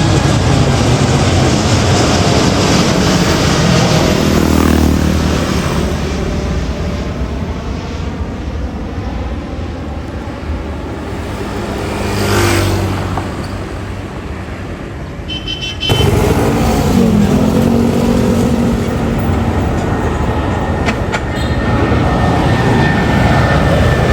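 Jet airliner engines at takeoff power. First a Boeing 787-9 rumbles and slowly fades as it climbs away. About two-thirds of the way through, the sound cuts abruptly to an Airbus A330 on its departure, louder and closer, with a tone that falls as it passes.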